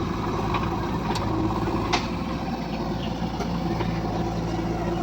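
Heavy diesel engine running steadily, with a couple of sharp clicks about one and two seconds in.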